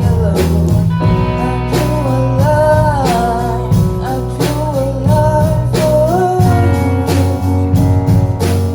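Live band playing a song: a voice singing the melody over guitar, a steady bass line and a drum beat.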